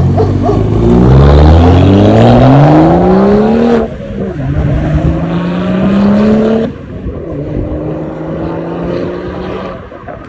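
BMW with a freshly fitted true dual exhaust accelerating away hard. The exhaust note climbs in pitch, drops at upshifts about four and about seven seconds in, then settles to a steady cruise and fades.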